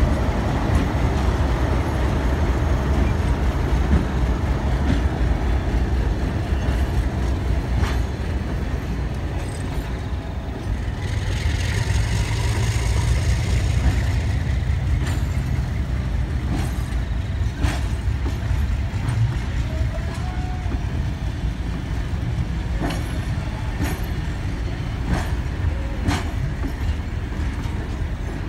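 A train of vintage passenger carriages rolling past close by: a steady low rumble with the wheels clicking over rail joints, the clicks sharper and spaced out in the second half. A hiss swells for a few seconds near the middle.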